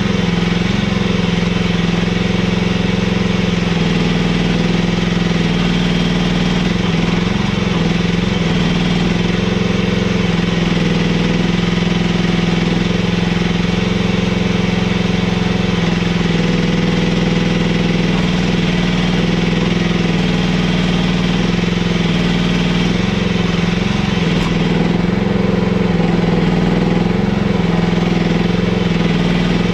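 Mini excavator's engine running steadily at an even speed.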